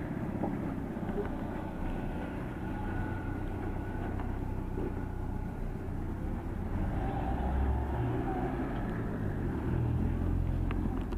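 Yamaha MT-03 motorcycle being ridden, its engine running under the rush of road and wind noise, the engine note rising and getting louder a few times.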